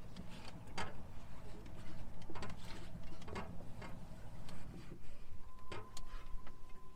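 Low steady hum of a tour boat's motor, with scattered light clicks and faint voices. A thin steady tone starts near the end.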